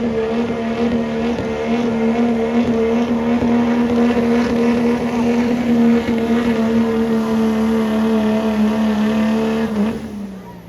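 Diesel pulling truck's engine at full throttle under load, holding a steady high engine note; near the end the revs fall away and the note drops off.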